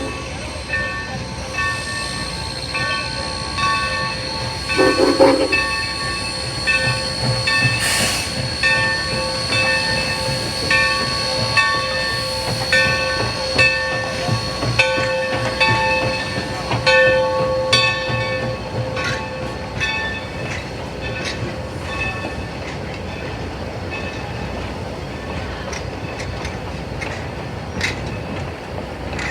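A train running on the rails, with a rumble and scattered clicks under steady, high metallic squealing tones. The squealing comes and goes and dies away a little past the middle.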